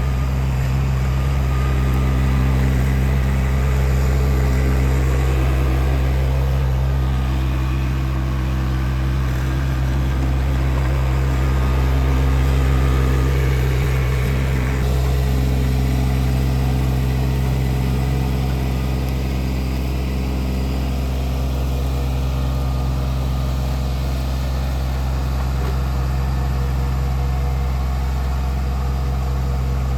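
Tractor engine running at a steady speed, with a slight change in its tone about halfway through.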